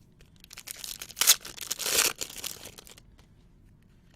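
A trading-card pack wrapper being torn open and crinkled, in a burst of tearing and rustling that peaks twice and stops about three seconds in.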